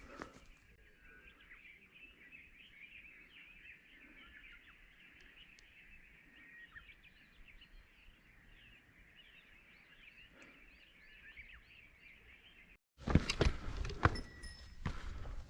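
Small birds singing in a forest, a faint, dense chorus of chirps; near the end one bird repeats a run of about seven quick looping notes. About 13 seconds in the sound cuts off, and loud footsteps follow.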